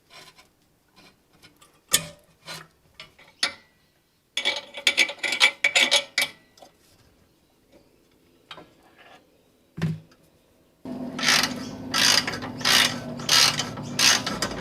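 Ratchet wrench clicking in fast runs, tightening the exhaust mount bolt: a short run about four seconds in and a longer one from about eleven seconds, with a few sharp metal clinks of the bolt being fitted before it.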